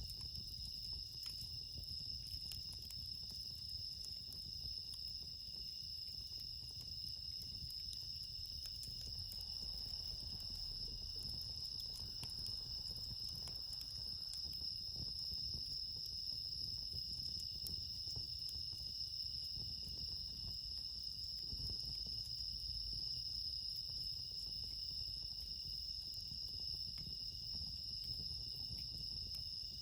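Steady night chorus of crickets, bell crickets (suzumushi) among them, several insects trilling at once on unbroken high-pitched tones. A few faint ticks from the campfire come through now and then.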